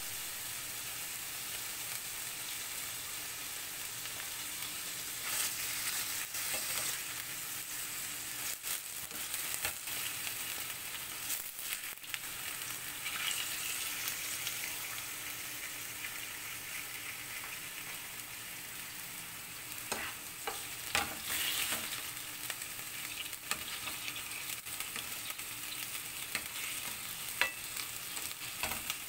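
Chicken livers sizzling in hot oil in a stainless steel frying pan: a steady hiss with scattered pops and crackles. Near the end a spatula stirs them around the pan.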